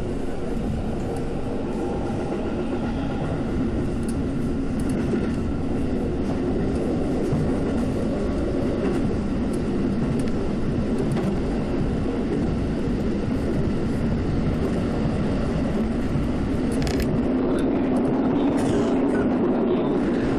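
Keikyu electric commuter train running at speed, heard from inside the carriage: a steady rumble of the running gear on the rails that grows slightly louder near the end.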